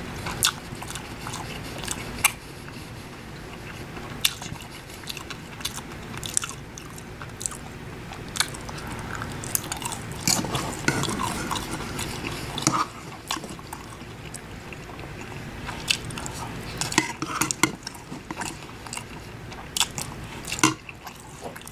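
Close-up chewing and wet mouth sounds of a person eating fried rice and vegetarian orange chicken, with irregular sharp clicks of a metal fork scraping and tapping a ceramic bowl.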